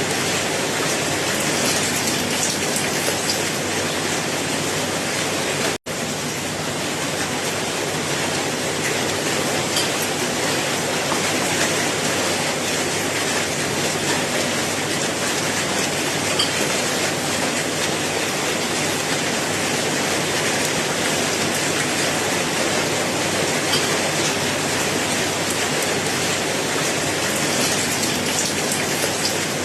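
Steady rainfall, a dense even hiss of falling rain with faint scattered drop ticks. It cuts out for an instant about six seconds in.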